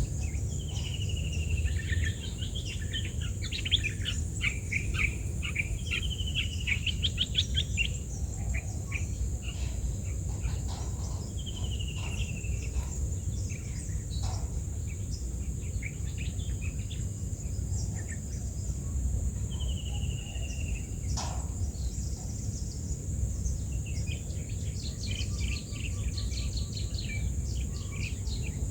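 Birds calling: short descending whistled notes every several seconds, with bursts of rapid chirping a few seconds in and again near the end. A steady high insect drone and a low rumble run underneath.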